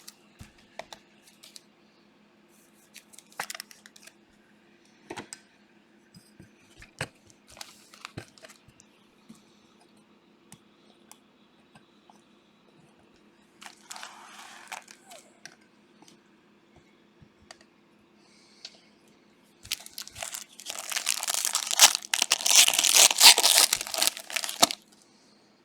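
Trading cards being handled with scattered small clicks and slides, then a Panini Prizm card pack wrapper torn open and crinkled for about four seconds near the end, the loudest sound. A faint steady hum runs underneath.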